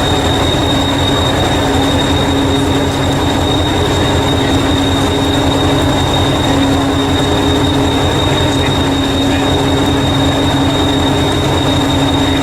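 Train running steadily: a low, rapidly pulsing drone under a constant high-pitched whine.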